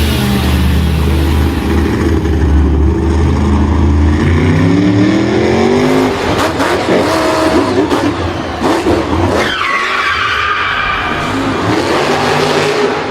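Racing car engine revving, its pitch climbing and falling, with tyres skidding and squealing later on.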